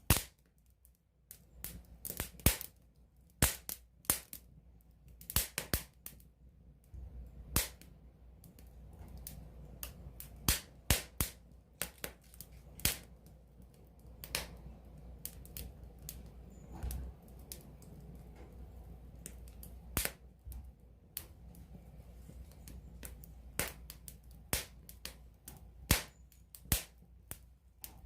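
Wood campfire crackling: irregular sharp pops and snaps from the burning wood, some loud and some faint, over a faint low rumble of the flames.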